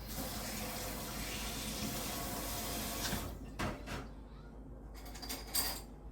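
Water running steadily for about three seconds and then stopping, followed by a few short knocks.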